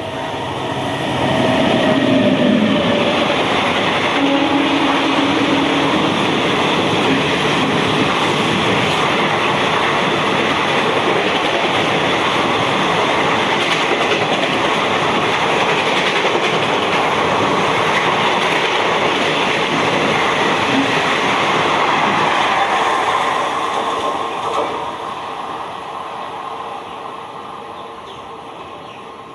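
An express train passing at speed. The rumble and clatter of its wheels on the rails builds within the first two seconds, holds steady for about twenty seconds, then fades as the train moves away.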